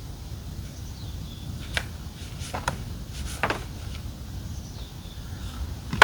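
A few short, sharp clicks and knocks of roof top tent parts being handled while it is folded up: two about two seconds in and another pair around three and a half seconds, over a steady low rumble.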